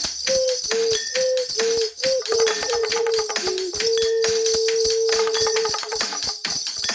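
Soundtrack music: a simple melody played on a homemade clay ocarina over a quick rhythm of percussion hits, with one long held note about four seconds in.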